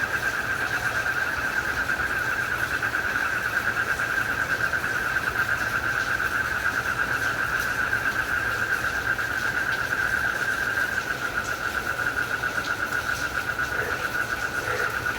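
Crickets trilling in a steady, rapidly pulsing chorus, over an even background hiss. A few short, lower calls come in near the end.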